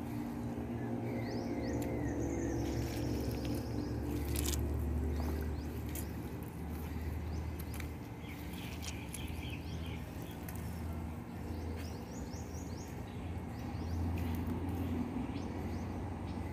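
Outdoor ambience with small birds chirping in a few short phrases over a steady low hum, with scattered clicks and rustles.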